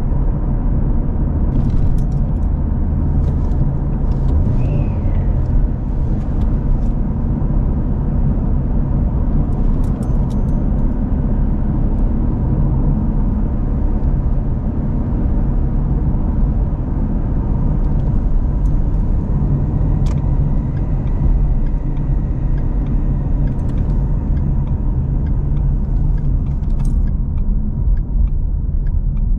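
S197 Mustang's 3.7 L Cyclone V6 driving at a steady pace, heard from inside the cabin: a steady low engine and road rumble. It is running unboosted through newly fitted turbo manifolds and exhaust on a fresh injector tune. Light clicks and rattles come through now and then.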